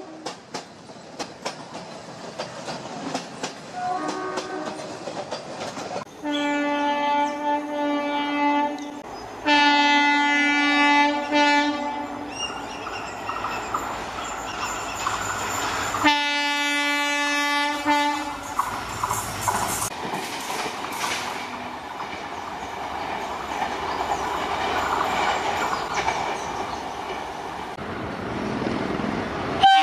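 Indian Railways train horn sounding three long blasts, with a short faint one before them, then the rumble of a train running past, its wheels clacking over the rail joints.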